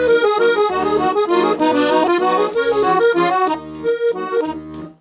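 Accordion playing a hymn tune without voice: a busy run of notes that thins out and grows quieter after about three and a half seconds, dipping almost to silence at the very end.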